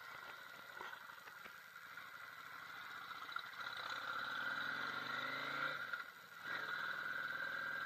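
Yamaha V Star 650's air-cooled V-twin pulling away, its revs rising for a couple of seconds, dropping briefly at a gear shift about six seconds in, then running steadily again.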